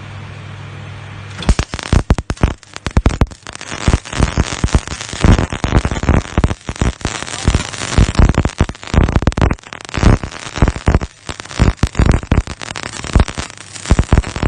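XS 350 MIG welder's arc striking about a second and a half in, then crackling and spitting irregularly as the wire feeds into the weld. Before the arc strikes there is a steady low hum.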